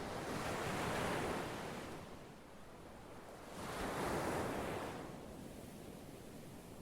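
Ocean surf: two waves wash in and recede, swelling about a second in and again about three seconds later.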